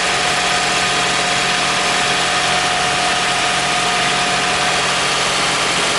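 2001 Toyota Sienna's 3.0-litre V6 idling steadily after a starter replacement, with a constant hum and no change in speed.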